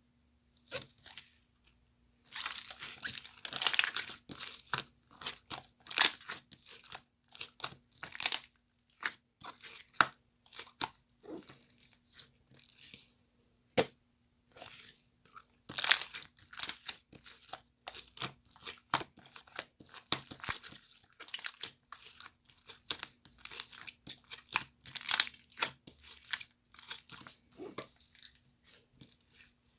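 Close-up crinkling and crunching, broken by many sharp clicks and taps, in irregular clusters with short pauses.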